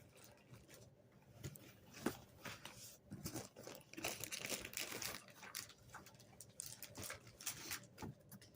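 Packaging being handled and unpacked by hand: faint, irregular crinkling and rustling with small clicks, busiest from about a second in.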